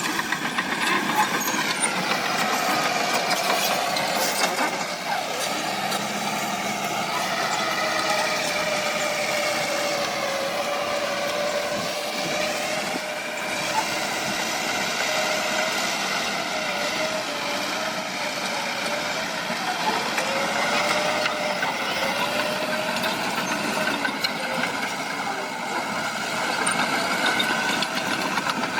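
Diesel engines of heavy earthmoving machines, a bulldozer and dump trucks, running continuously while working, the engine note rising and falling as the revs change.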